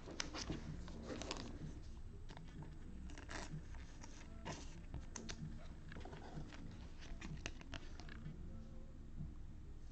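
Football trading cards being handled: a run of soft, irregular scrapes and flicks as cards are slid off a stack and flipped one after another.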